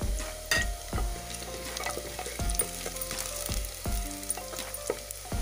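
Whole spices and fried onions sizzling in hot oil in an aluminium pressure cooker, stirred with a spoon that scrapes and knocks against the pot several times.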